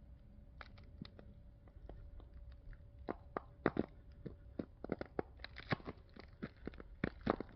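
Ice crunching and cracking in a run of sharp, irregular clicks that come faster and louder from about three seconds in.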